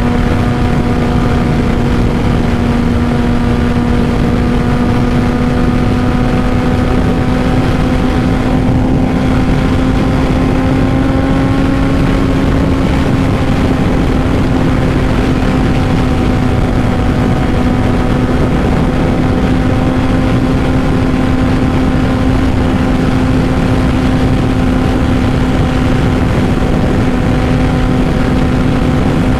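Honda CBR600RR inline-four with a Two Brothers full exhaust, running at a steady cruise with one held engine note that rises slightly about ten seconds in and then holds. Heavy wind rushes over the microphone throughout.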